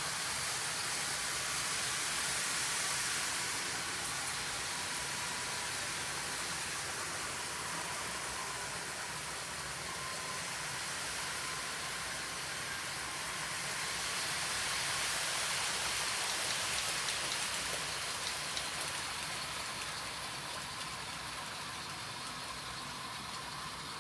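Model train running on the layout, a steady rushing sound of wheels and motor with a faint steady whine, swelling twice as it passes closer.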